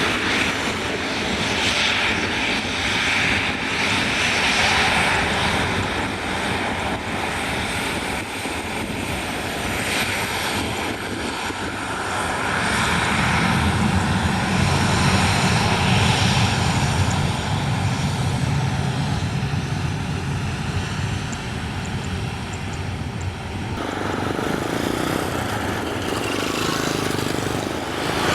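Engines of a passenger airliner running, a steady rushing noise that grows deeper partway through and changes abruptly near the end.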